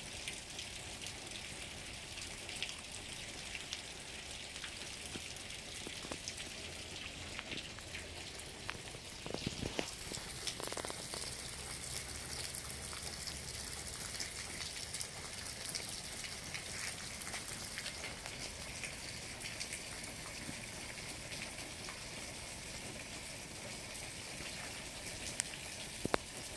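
Steady rain falling, an even hiss dotted with many small drop clicks, and a few louder single drops hitting close by about nine seconds in and near the end.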